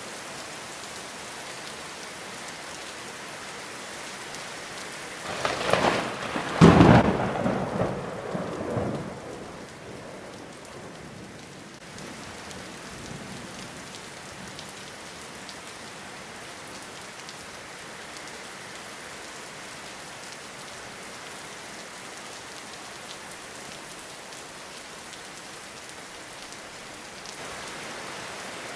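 Steady rain falling, with a loud clap of thunder about six seconds in that rolls and rumbles for a few seconds before fading back into the rain.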